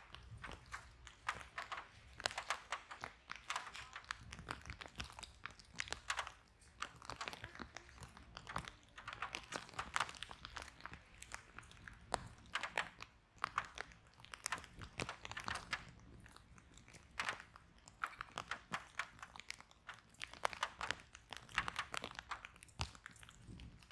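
Wood fire burning in a fireplace: dense, irregular crackling and popping of burning logs over a low rumble of flame.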